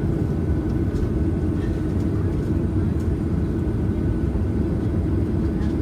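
Steady low rumble of a Boeing 737-800's cabin on the ground, its CFM56-7B engines at low taxi thrust, with a thin steady whine above it.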